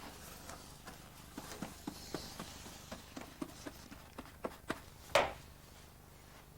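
Light taps and knocks, about a dozen scattered ones, with one louder short swish about five seconds in, as paper and brush are worked against a drying board during paper conservation.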